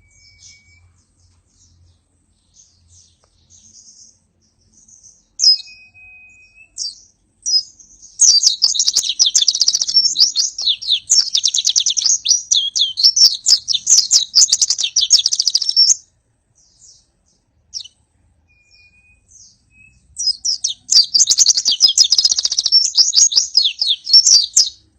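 White-eye (pleci) singing. A few scattered short calls and thin whistles lead into long runs of fast, dense, high twittering song, the rapid-fire 'nembak rapat' delivery, from about eight seconds to sixteen and again near the end.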